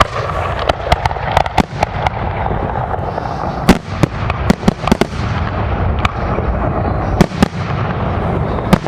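Aerial fireworks bursting: many sharp bangs at irregular intervals over a continuous rumble and crackle, with the loudest reports about a third of the way in and near the end.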